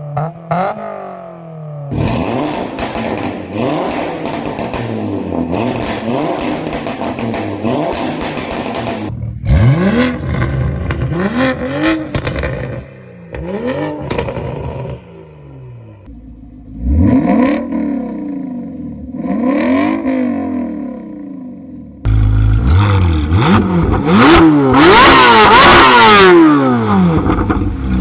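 High-performance car exhausts in a run of short clips, each engine revved in quick blips, its note climbing and dropping again and again. The loudest, longest revving comes in the last few seconds.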